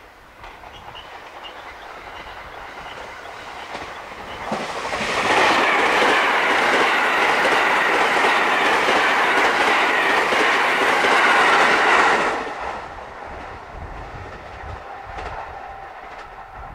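JR West 683 series 4000 limited express electric train approaching, passing close by at speed with its wheels clattering over the rail joints, then fading as it moves away. It is loudest for about seven seconds in the middle, as the cars go past.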